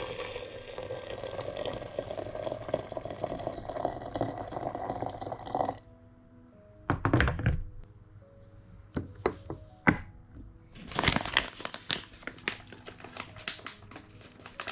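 Soft background music under household handling sounds: a steady rushing noise for about six seconds, then a series of separate knocks and clunks.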